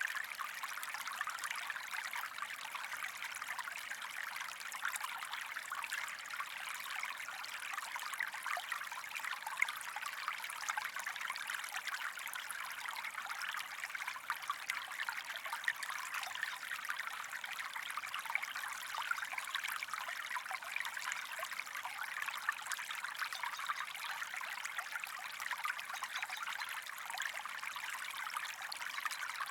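A small stream of water trickling and splashing steadily, with fine splashes flecking the even rush.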